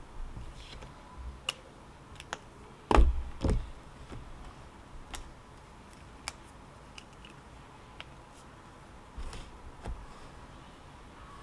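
Scattered light clicks and taps, with two louder knocks about half a second apart around three seconds in.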